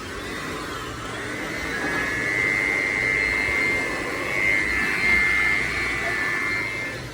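A motor-driven machine running with a steady high whine over a rushing noise, getting louder about two seconds in and dropping back near the end.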